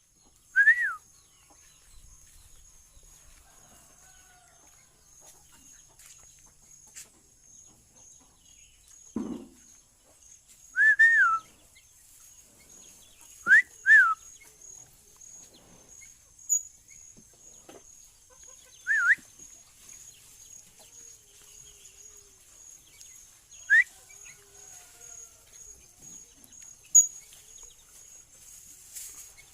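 Sooty-headed bulbul (kutilang) giving short, loud whistled call notes that rise and fall, singly or in quick pairs, several seconds apart. A faint, steady, pulsing high-pitched tone runs underneath, and there is one dull low thump about nine seconds in.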